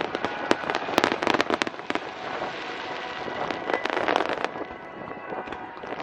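Aerial fireworks display: a quick run of sharp bangs from bursting shells in the first two seconds, then a spread of dense crackling about four seconds in.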